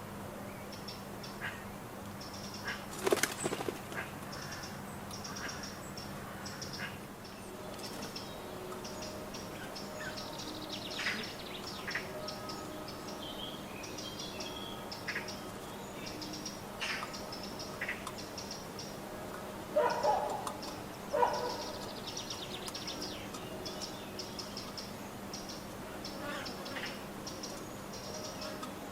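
Small garden birds at a nut feeder: short high chirps repeat throughout, with a few louder flutters and knocks as birds come and go, about three seconds in and again around two-thirds of the way through.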